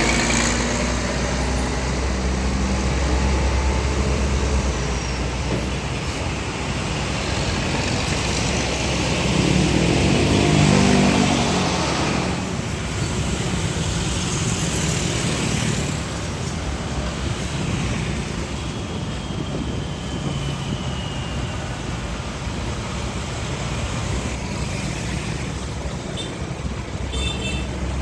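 Heavy diesel trucks running past on a road amid traffic, with a steady low engine hum. One truck's engine gets louder and passes closest around ten seconds in.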